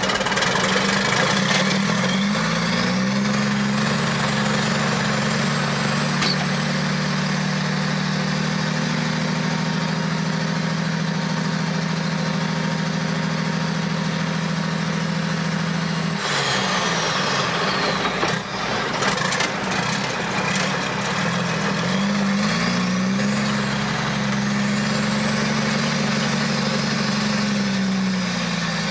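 Mack R600 truck's diesel engine pulling through the gears. It revs up and holds steady, drops away for a gear change about sixteen seconds in, then climbs again and eases off near the end, with a faint high whine rising and falling with the revs. The truck's brakes drag, so it slows hard between gears.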